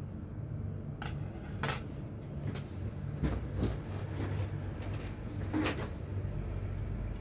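Light clinks and clatters of small hard objects being handled, about six over several seconds, with a low steady hum underneath.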